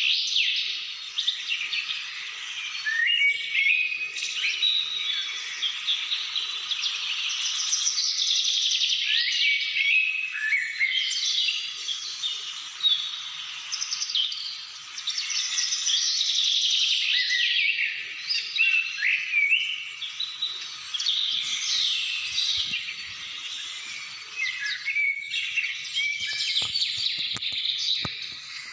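A chorus of many songbirds singing and chirping at once, their quick rising and falling notes overlapping continuously. A few faint clicks come in near the end.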